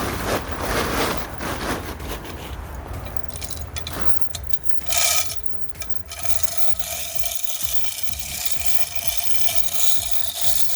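Scraping and rubbing as a jet ski engine is hoisted up out of its fibreglass hull, with a brief, louder high-pitched rasp about five seconds in.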